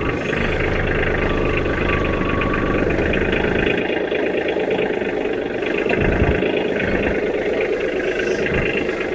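Kioti DK35 SE compact tractor's diesel engine running steadily, with a heavier low rumble for the first few seconds and a thump about six seconds in.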